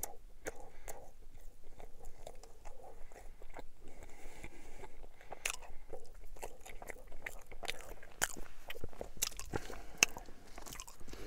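A person chewing a mouthful of braunschweiger sandwich on white bread, with many small, irregular mouth clicks.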